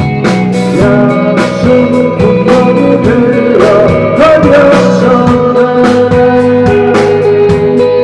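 Indie rock band playing live and loud: guitars over a steady drum beat, with singing.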